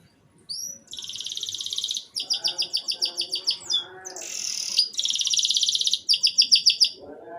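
Domestic canary singing: fast rolls of rapidly repeated high notes, broken into several phrases with short gaps, starting about a second in.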